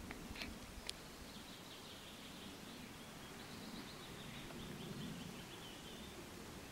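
A small bird singing faintly: a long series of rapid, repeated high notes lasting several seconds, with a few light clicks in the first second.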